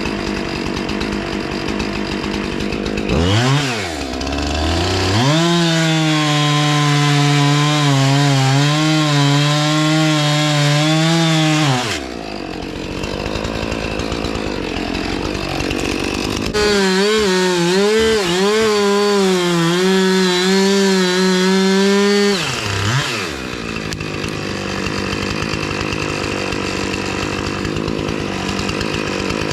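Two-stroke chainsaw making felling cuts in a pine. It idles, revs up about three seconds in and cuts for several seconds with its pitch dipping under load, then drops back to idle. It makes a second cut of about six seconds from halfway, then returns to idle.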